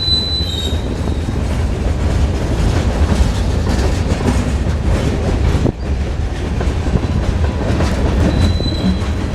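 Freight train cars rolling past with a steady heavy rumble and clatter of wheels over the rails, and a brief high wheel squeal near the start and again near the end.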